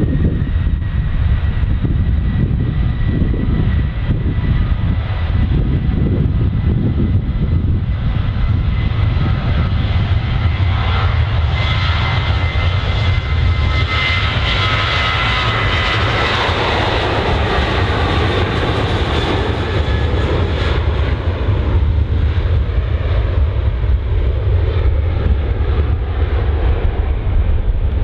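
Jet airliner's engines passing close by: a deep rumble throughout with a steady high whine, the roar building to its loudest about halfway through and then fading.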